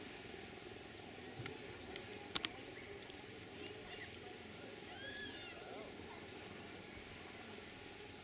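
Birds chirping in short, high, falling notes over steady outdoor background noise, with a single sharp click about two seconds in.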